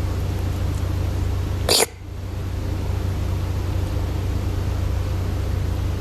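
A cat gives one brief, sharp cry a little under two seconds in, over a steady low hum.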